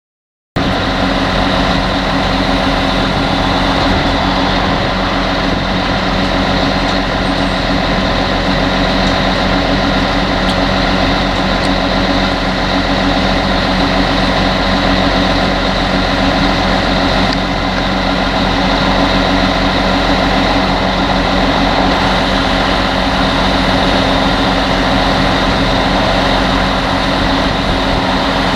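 Heavy potato-harvesting machinery running steadily, a loud, even engine drone with constant mechanical hum. It starts abruptly about half a second in.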